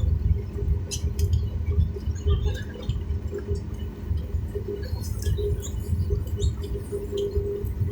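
Airliner cabin ambience: a steady low rumble with scattered small clicks and taps.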